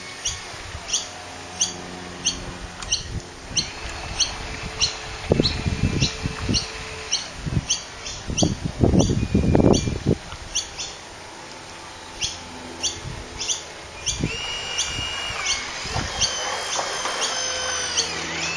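A small bird chirping about twice a second, short high chirps throughout, with gusts of wind buffeting the microphone twice around the middle.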